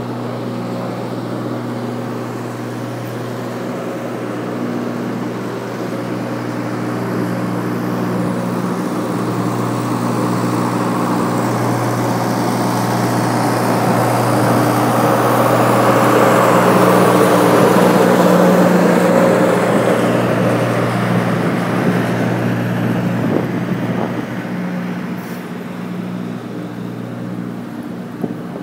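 An engine running with a steady hum at a fixed pitch. A rushing noise grows louder over the first two-thirds, peaks, then fades.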